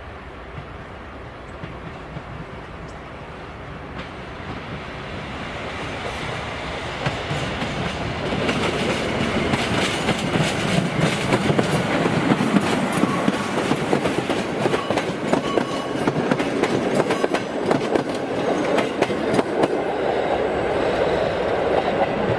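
Train approaching and passing close by: a rumble that grows for the first several seconds, then a steady clatter of wheels clacking over the rail joints as the wagons roll past.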